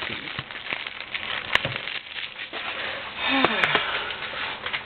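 Handling of a plastic DVD case and its packaging: a string of sharp clicks and rustling, busiest about three and a half seconds in.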